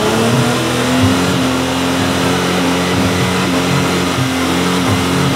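Off-road 4x4's engine revved and held at high rpm, its note climbing over the first second and then holding steady.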